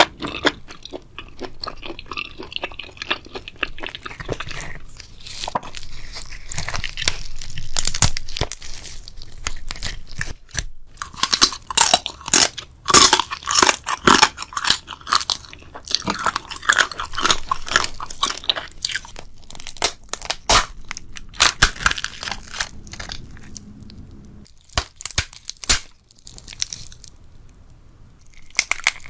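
Close-miked chewing of crunchy food: dense, rapid crunches in runs, with a few single sharp crunches near the end.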